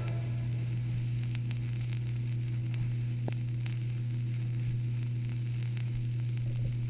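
Vinyl record playing on past the end of the music: scattered small crackles and clicks of surface noise over a steady low hum from the playback chain.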